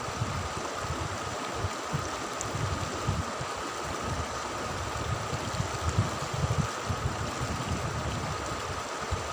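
River water flowing steadily, with an uneven low rumble underneath and a faint steady high tone.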